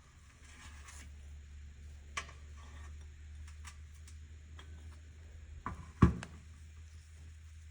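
Tools and parts being handled on a workbench: a few light clicks and one sharp knock about six seconds in, over a steady low hum.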